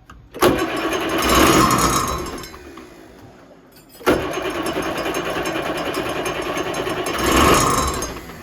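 Sailboat's diesel engine being cranked over in two tries: one starting about half a second in and fading off, and a longer one starting suddenly about four seconds in and stopping near the end. The engine is struggling to start because air is bleeding into its fuel system.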